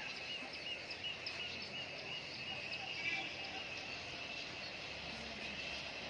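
Quiet outdoor ambience: a steady high insect drone with small chirps repeating every half second or so, and a few higher bird-like chirps.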